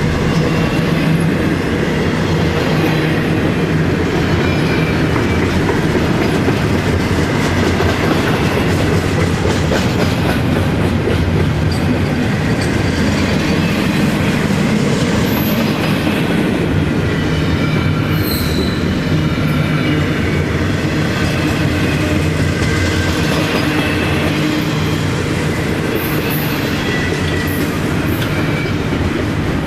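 Florida East Coast Railway freight cars rolling steadily past, wheels clattering on the rails, with faint high wheel squeals that come and go.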